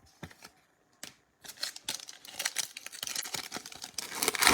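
Foil trading-card pack being torn open and its wrapper crinkled: a few light clicks, then from about a second and a half in a run of crackling and tearing that grows louder toward the end.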